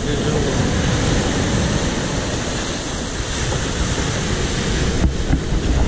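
Rough surf in a stormy sea: a steady roar of breaking waves, with wind buffeting the microphone in low rumbling gusts.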